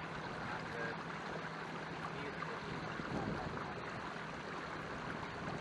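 Canoe moving on calm water: a steady wash of water sound with a faint, steady low hum underneath.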